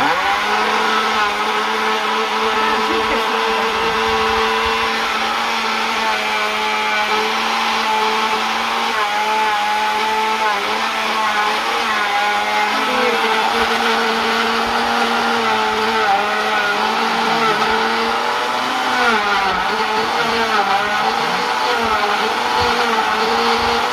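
Electric blender switched on and running, blending apple and banana pieces with liquid into a smoothie. The motor starts suddenly and runs steadily, its pitch wobbling in the second half as the fruit churns in the jar.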